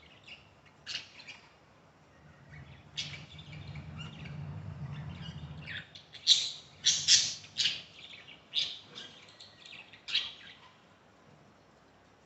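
Budgerigars chirping and squawking in a run of short, sharp calls, the loudest cluster between about six and eight seconds in.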